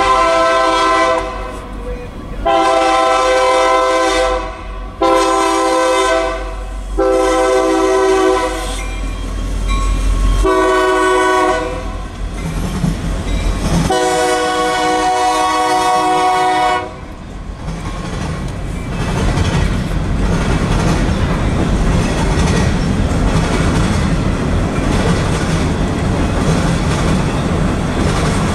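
Union Pacific diesel locomotive's air horn sounding a series of long blasts with one short one, over the low rumble of the engine. The horn then stops and freight cars roll past with a steady rumble and wheels clacking on the rails.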